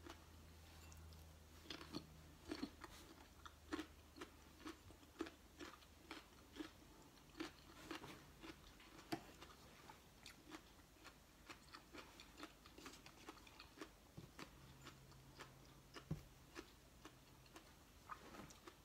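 A raw carrot stick being chewed with the mouth closed: a steady run of faint, crisp crunches, roughly one to two a second.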